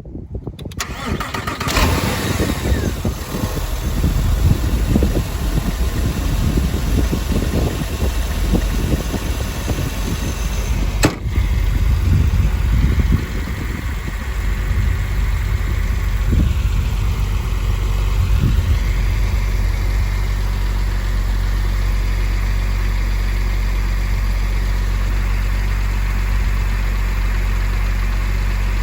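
2002 Porsche 911 Carrera's 3.6-litre flat-six cold-starting: it turns over and catches within the first couple of seconds, runs at an uneven fast idle with one sharp click about eleven seconds in, then settles into a steady idle.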